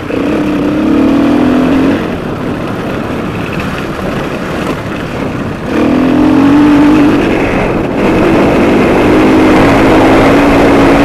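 Off-road rally motorcycle engine under way, revving up near the start and again about six seconds in, then holding steady, with heavy wind rush on a helmet-mounted camera.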